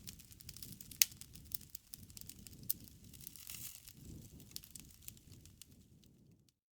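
Wood fire crackling: scattered sharp pops, the loudest about a second in, over a low, uneven rumble of burning. The sound drops out briefly near the end.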